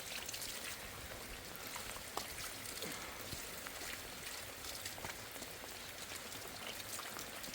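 Steady rain, an even hiss with a few separate drips and taps.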